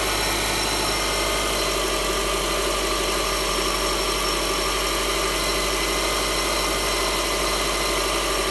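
Subaru EL15 1.5-litre flat-four engine idling steadily as it warms up.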